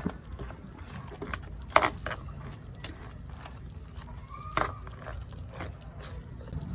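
Scattered clacks and knocks of a utensil against a pan as chicken wings are tossed in buffalo sauce, over a steady low hum. The loudest knocks come about two seconds in and again past the middle.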